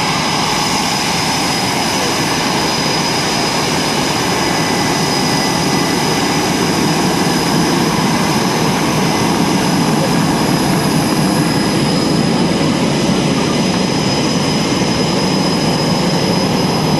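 Military jet aircraft engines running: a loud, steady roar with a constant high whine over it.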